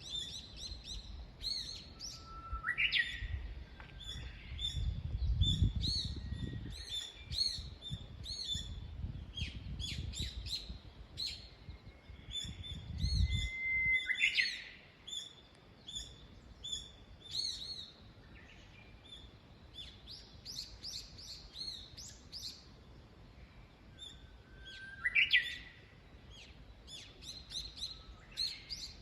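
Small songbirds chirping and singing throughout, several birds' short calls and whistled phrases overlapping. A low rumbling noise comes and goes in the first half.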